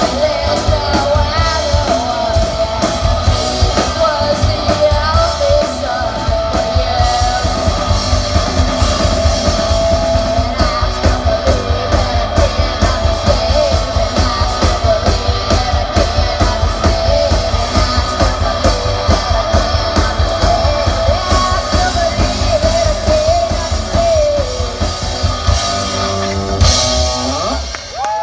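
Rock band playing a fast song with singing, drum kit and guitar. The song ends on a final crash a little before the end.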